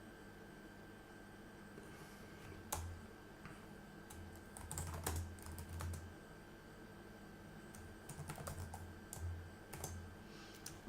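Computer keyboard typing in short runs of keystrokes, with pauses between.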